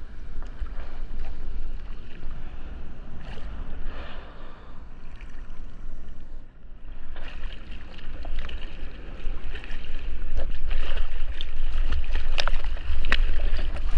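Ocean water sloshing and splashing around a surfer in the sea, with wind rumbling on the GoPro's microphone; the splashing gets louder from about ten seconds in.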